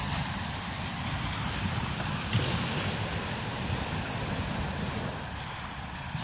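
Strong desert wind blowing steadily over sand dunes, with low buffeting on the microphone and one brief stronger gust about two and a half seconds in.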